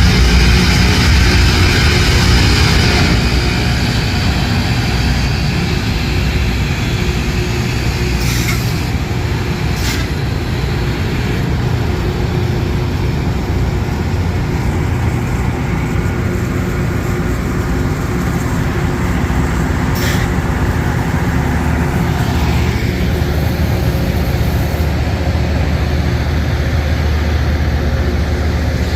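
LORAM rail grinder working the rail: a steady heavy diesel rumble under a harsh grinding hiss that is loudest for the first few seconds, then eases. A few short sharp bursts cut through it.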